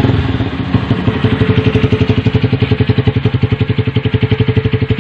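Honda Verza 150's single-cylinder engine idling fast through a drilled-out (bobokan) Tiger Revo exhaust, coming in abruptly at the start and then running as an even, rapid pulse. The muffler's glass wool is burnt out, so the note is tinny with no bass.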